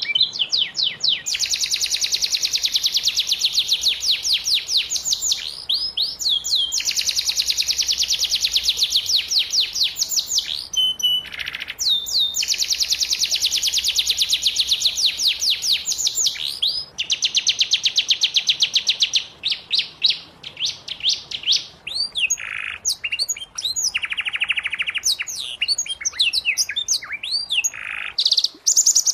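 Canary singing: long, rapid trills of repeated high notes in phrases several seconds long, separated by short breaks, turning into shorter, choppier phrases in the last third.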